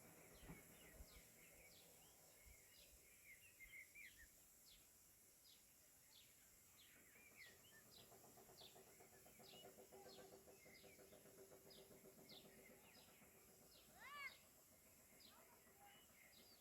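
Faint birdsong: a short high chirp repeated about twice a second, with scattered twittering, and one louder arching call near the end.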